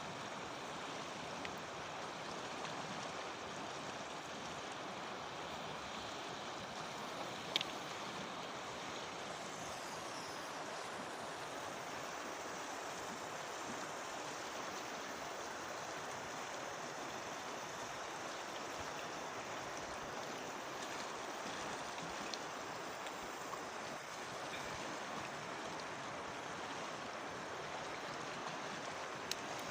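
Mountain river water rushing steadily past. A sharp click sounds about a quarter of the way in, with a fainter one near the end.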